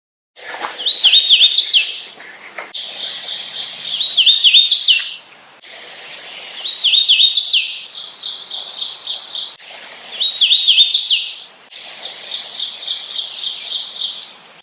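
Hooded warbler singing: four songs, each a run of clear slurred whistles that rises to an emphatic higher ending, with fast runs of repeated notes in between. The recording cuts abruptly from segment to segment.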